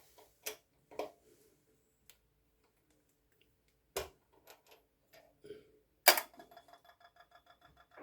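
A few separate sharp knocks, the loudest about six seconds in, followed by a rapid, even ticking with a faint ringing tone.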